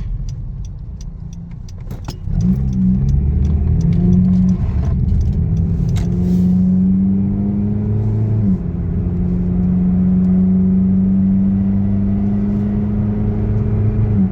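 Four-cylinder engine of a 9th-generation Honda Civic with a muffler delete, accelerating: the low exhaust drone gets louder about two seconds in and climbs slowly in pitch. It drops suddenly about eight and a half seconds in, then holds steady.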